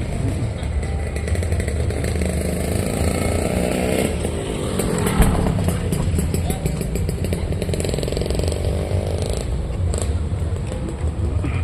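Street traffic with motorcycle engines passing close by. One engine rises in pitch as it accelerates, and another runs on until it fades out about nine and a half seconds in.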